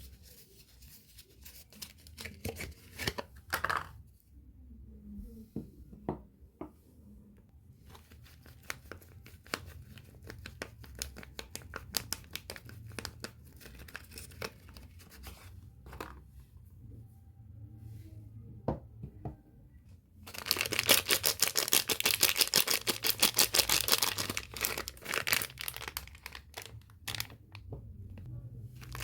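Soap packaging being unwrapped by hand: the wrapper crinkles and crackles, and about twenty seconds in it is torn open in a loud stretch lasting about five seconds.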